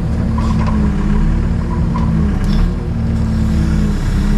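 Takeuchi TB285 compact excavator's diesel engine running steadily under hydraulic work, its pitch dipping briefly twice.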